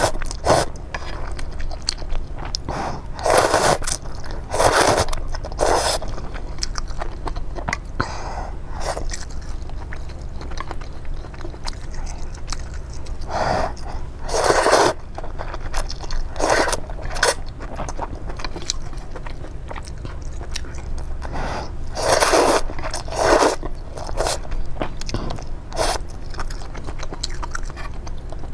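Close-miked eating: bites and chewing in separate bursts of about a second, with pauses between, over a steady low hum.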